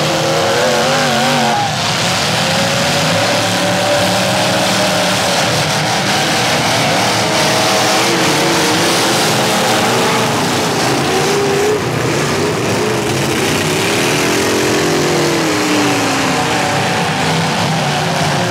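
Several demolition derby cars' engines running and revving at once, their pitches rising and falling and overlapping over a steady, loud wash of engine and arena noise.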